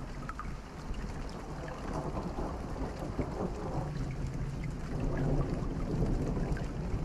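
Steady rain with a low rumble that swells and fades, and scattered small crackles from a campfire.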